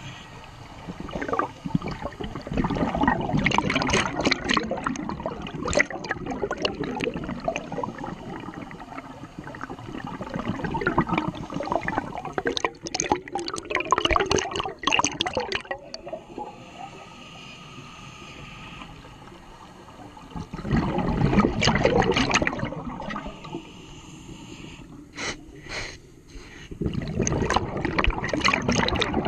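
Scuba diver's exhaled bubbles from the regulator, heard underwater: four long bubbling, gurgling surges several seconds apart, one per breath, with quieter spells between them.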